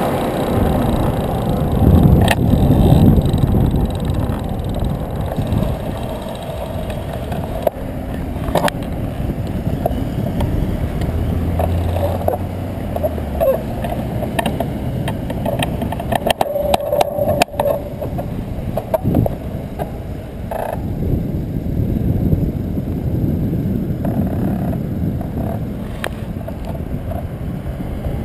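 Riding noise on a bicycle: a steady rush of wind and road noise, with a brief cluster of clicks and rattles about two-thirds of the way through.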